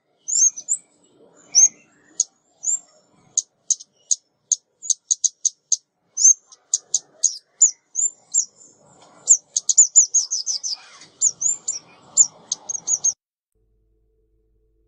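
Lure recording of a female ốc mít, a small songbird, calling: a fast run of high, thin chips and short slurred notes that stops about thirteen seconds in.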